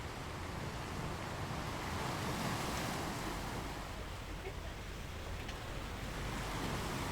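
Sea waves washing on a shore: a steady rushing hiss that swells as a wave comes in about two and a half seconds in, and again near the end.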